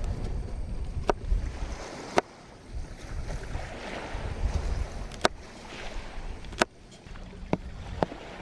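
Ocean waves washing up and draining back in slow swells, with about six sharp clicks or knocks scattered over them.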